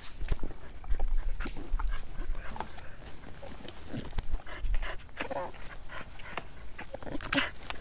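Coyotes calling outside, several short high-pitched cries amid rustling and clicks.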